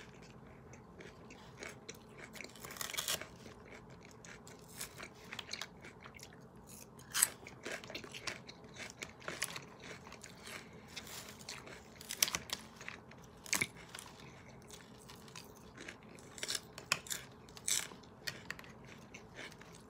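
Close-up chewing and crunching of crisp romaine lettuce salad, in irregular crunches with a few sharper clicks.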